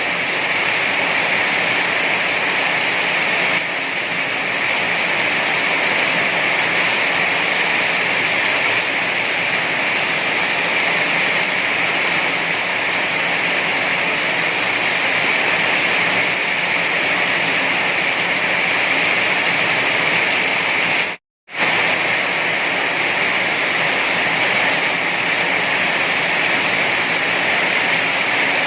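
Heavy rain falling as a steady, dense hiss. It is broken once, about three-quarters of the way through, by a split-second dropout to silence.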